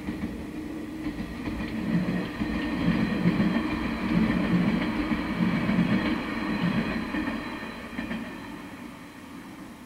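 A train passing by on the rails, growing louder to its loudest about three to five seconds in, then fading away.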